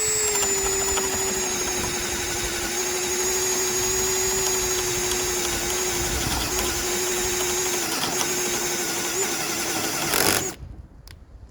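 Bauer 20-volt cordless hammer drill driver running in low speed with its clutch at the top setting, boring a hole in wood. The motor whines steadily, dips slightly in pitch a few times under load, and cuts off suddenly about ten and a half seconds in.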